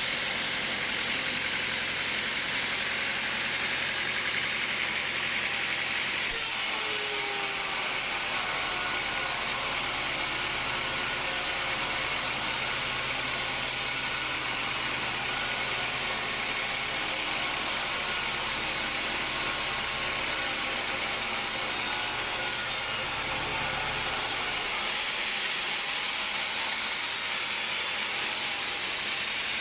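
Sawmill machinery running steadily: a constant mechanical hum under a loud hiss, with abrupt shifts in tone about six seconds in and again near the end.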